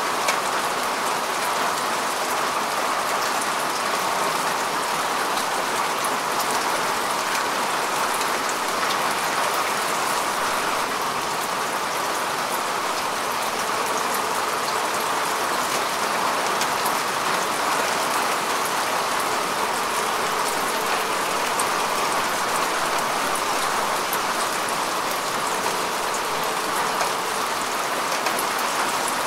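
Steady rain falling on grass and earth, an even hiss of many drops with fine drop ticks throughout.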